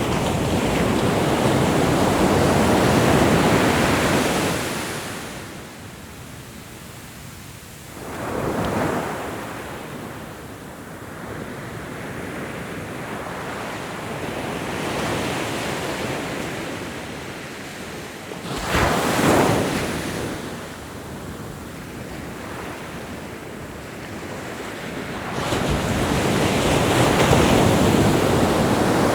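Ocean waves breaking and washing on a shore, rising and falling in swells: a wave crashes at the start, smaller surges about 8 and 19 seconds in, and another builds near the end.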